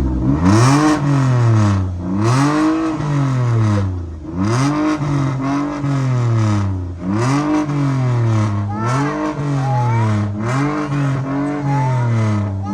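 A Mercury crossover's engine is revved hard over and over in a rev-off. There are about six quick climbs in pitch, each falling back, roughly every two seconds.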